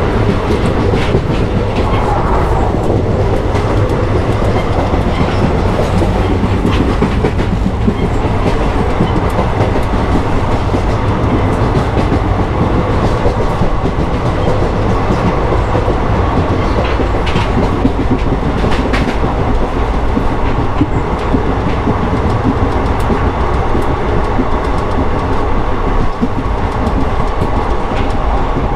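Indian Railways express train running at speed, heard from beside the coaches: a steady rumble of wheels on rail, with scattered clicks from rail joints.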